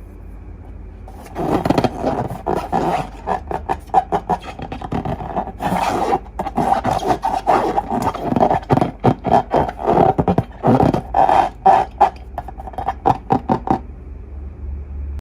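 Hands working balloons and slime close to the microphone: a rapid, irregular run of squelches and crackles that starts about a second in and stops shortly before the end.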